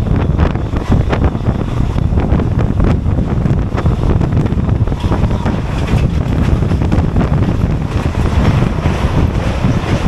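Moving passenger train in steady running, with a loud low rumble and irregular rattling and clatter, and wind buffeting the microphone.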